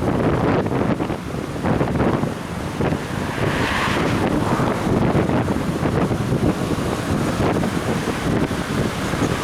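Wind buffeting the microphone of a head-mounted action camera on a moving bicycle, a steady rumbling rush, with a brief brighter hiss about four seconds in.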